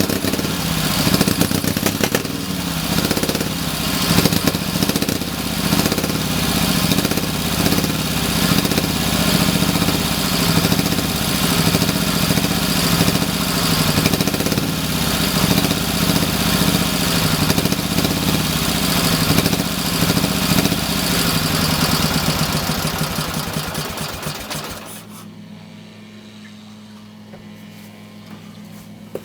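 Ural M-62's K-750M sidevalve flat-twin engine running unevenly, its note surging and sagging, then slowing and stopping about 25 seconds in, after which only a quieter steady hum is left.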